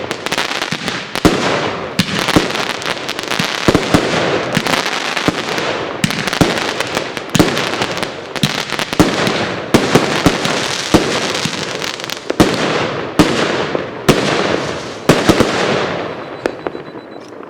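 Bursting Wheels consumer fireworks cake firing: a rapid string of sharp shots and bursts over a continuous crackling hiss, dying away near the end.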